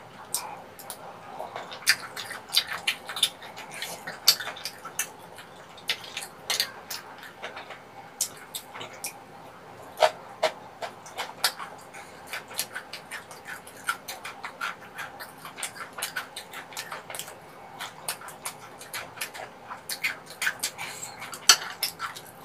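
Close-miked mukbang eating of tteokbokki rice cakes and sundae: wet chewing and lip smacks in quick irregular clicks, with a spoon and chopsticks clinking on a ceramic plate now and then. A sharp click near the end is the loudest.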